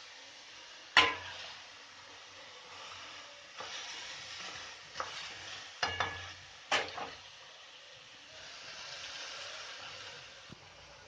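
Food sizzling as it fries in a pan, stirred with a metal spoon that clanks sharply against the pan: once loudly about a second in, then several times in a cluster a few seconds later.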